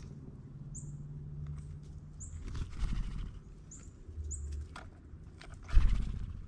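Animals scrabbling and knocking at a ground feeder close to the microphone, with a loud thump about six seconds in, while a bird gives short, high, falling chirps about once a second in the background.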